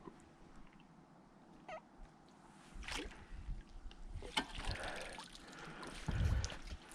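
Water sloshing and trickling as a dip net is worked in shallow canal water, starting about three seconds in, with rustling handling noise and scattered small clicks.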